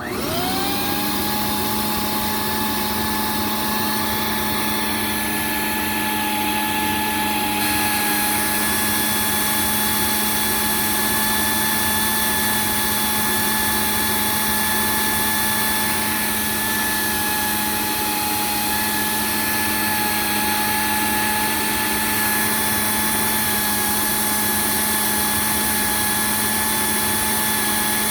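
Hoover C2401 backpack vacuum's dual-stage Ametek motor switched on, its whine rising quickly to a steady high pitch, then running at full speed with air rushing through, its intake fitted to an airflow meter at the body.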